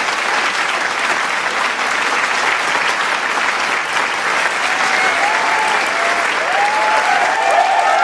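Large crowd clapping steadily, with cheering voices rising over the applause from about five seconds in.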